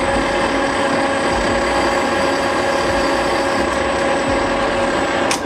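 Small metal lathe running steadily with a constant motor whine while cutting a part down to size. A sharp click about five seconds in.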